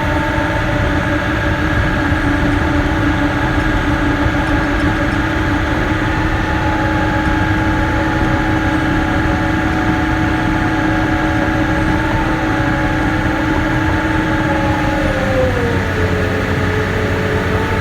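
Caterpillar D6K bulldozer's diesel engine running steadily. Its pitch sags about fifteen seconds in and picks back up near the end.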